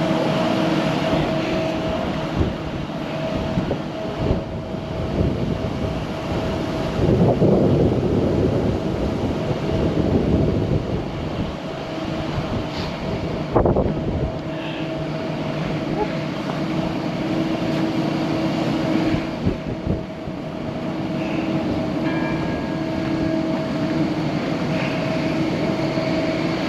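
Steady machinery drone with two constant humming tones, louder for a couple of seconds around the seventh second, and a single sharp knock about halfway through.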